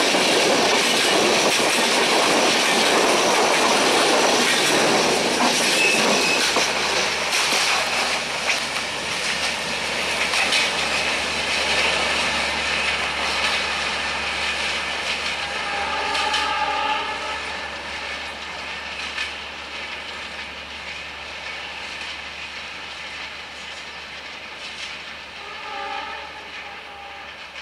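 Passenger coaches of a diesel-hauled express train rolling past, wheels clattering over the rail joints, the noise fading steadily as the train moves away. A faint multi-tone horn from the train sounds twice, once for about a second midway through and briefly again near the end.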